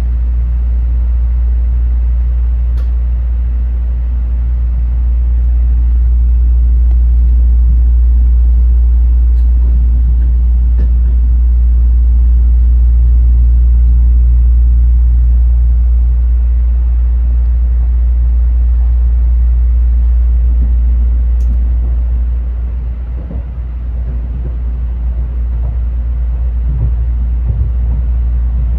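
Running noise inside a Tokaido Shinkansen passenger car: a loud, steady low rumble that slowly swells and eases, with a brief dip about four-fifths of the way through.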